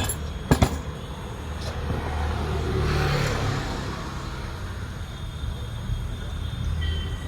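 Two sharp metallic clinks, then a road vehicle passing by, its noise swelling and fading over a steady low rumble of traffic.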